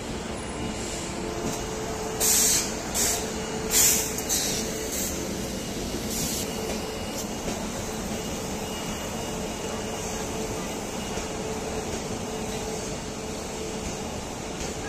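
Steady hum of passenger train coaches at a platform, with a faint steady tone running through it. About two to six seconds in come half a dozen short, loud hisses.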